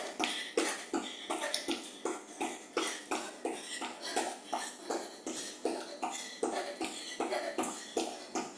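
A person working flat out at a fast cardio move, breathing hard in short, forceful gasps with quick steps, about three a second, at the point of exhaustion.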